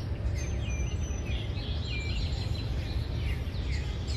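Small birds chirping repeatedly, many short quick calls, over a steady low rumble of outdoor background noise.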